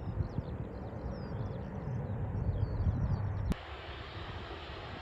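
Jet airliner rumbling in the distance, with high chirping above it. The sound cuts off abruptly about three and a half seconds in, leaving a quieter, even hiss.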